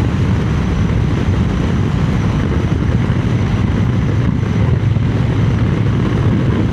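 Triumph Speed Twin 900's parallel-twin engine running at a steady cruise, mixed with a steady rush of wind over the microphone.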